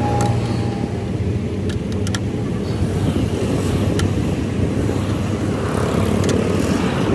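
Road traffic: motor vehicle engines running and passing in a steady low hum, with a few sharp clicks.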